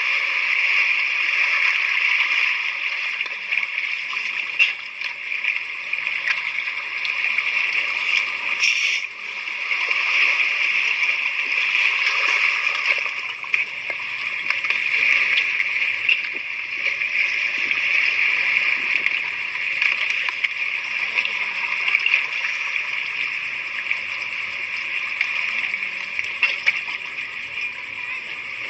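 Continuous rush of water splashing and sloshing, with small irregular splashes.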